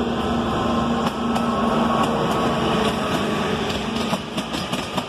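Narrow-gauge diesel locomotive passing close by with its engine running steadily. About four seconds in the coaches follow, and their wheels click rapidly over the rail joints.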